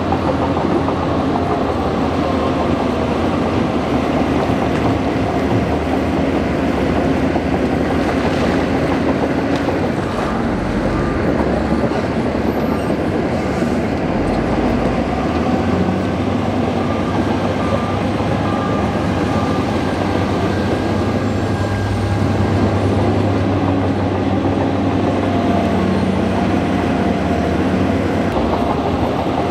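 Bulldozer at work: its diesel engine runs steadily under load for the whole stretch, the pitch shifting slightly up and down, over a continuous mechanical rattle.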